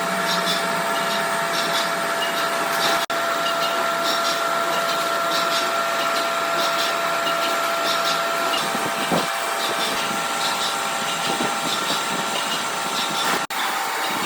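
Workshop machinery running steadily with a constant whine carrying two steady tones, briefly cut off twice.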